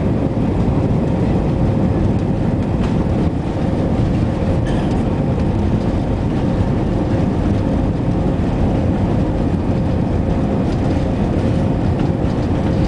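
Airbus A319 jet engines at takeoff thrust: a loud, steady rumble with a faint steady whine riding above it.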